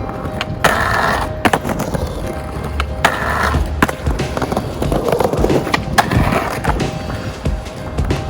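Skateboard riding: wheels rolling on hard ground with rough patches of rolling or grinding noise, broken by about half a dozen sharp clacks of the board popping and landing.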